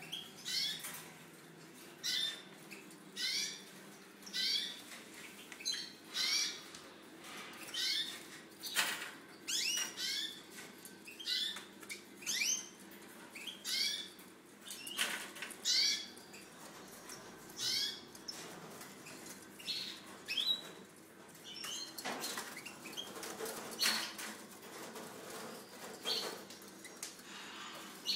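Caged birds in an aviary calling over and over, short chirps at about one a second for most of the stretch, then fewer and more scattered. A few brief wing flutters are mixed in.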